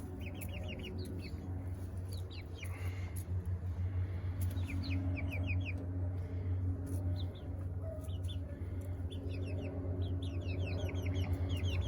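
Young chickens peeping: short, high, falling chirps in quick runs of three to six, over a steady low hum.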